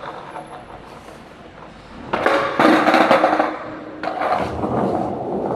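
Skateboard wheels rolling on wet pavement, with loud sharp clacks of the board about two seconds in and again about four seconds in as an ollie is popped and landed.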